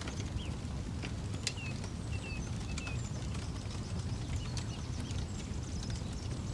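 Wood campfire crackling, with irregular sharp pops and snaps over a steady low rumble. A few short high bird chirps come in the first few seconds.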